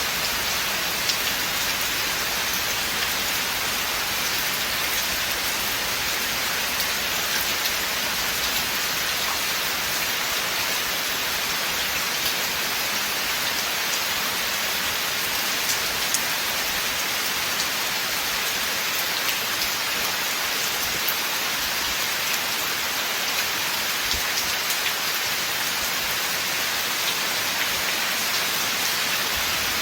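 Steady rain falling on a forest, a constant hiss with scattered individual drop ticks.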